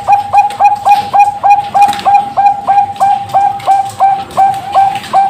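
Bangkok-type zebra dove (perkutut) cooing: a long run of short, evenly spaced notes on one pitch, about three a second, each opening with a quick downward slide.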